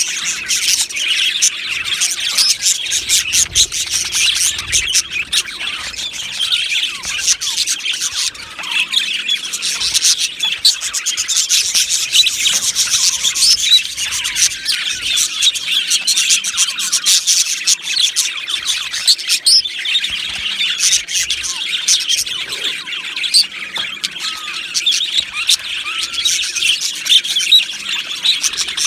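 A flock of budgerigars in an aviary chattering: many birds chirping, warbling and squawking at once, a dense, unbroken stream of high calls.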